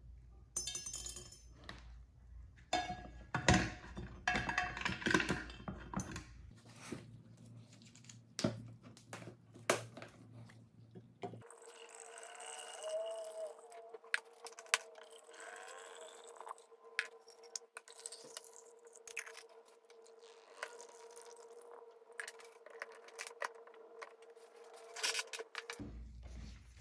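Hard plastic toy parts clinking and knocking against a glass cylinder as they are dropped in one after another, then liquid poured into the cylinder with a gurgle and a few more scattered clinks, filling a whitening bath for the yellowed plastic.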